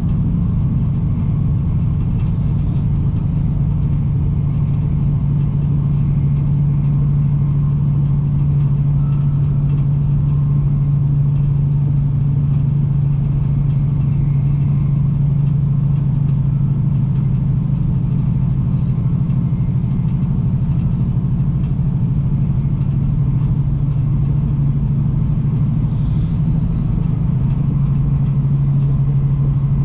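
Joetsu Shinkansen train running, heard inside the passenger cabin: a steady low rumble and hum of the running gear and wheels on the rails that holds even throughout.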